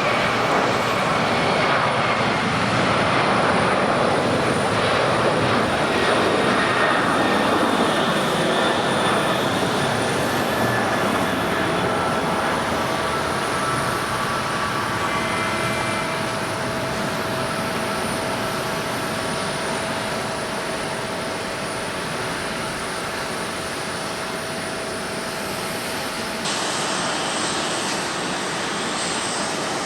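Boeing 767-300ER twin-jet airliner departing under takeoff power: a loud, steady jet roar with a thin whine, loudest in the first several seconds and then easing slowly as it passes, some of its tones dropping in pitch. Near the end the sound cuts abruptly to another jet airliner's engines.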